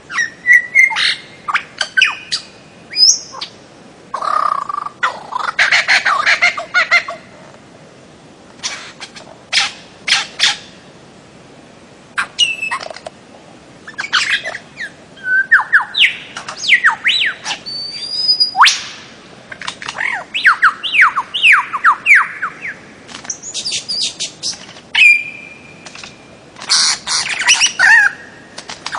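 Bird-of-paradise calling: loud, harsh squawks and sharp notes in bursts, with runs of quick down-slurred whistles and, later, one held whistle.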